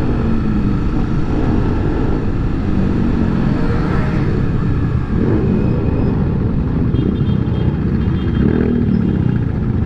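Honda XRE300's single-cylinder four-stroke engine running as the motorcycle rides along a street, its note shifting slightly with the throttle. Heavy wind rumble on the handlebar-mounted microphone runs under it.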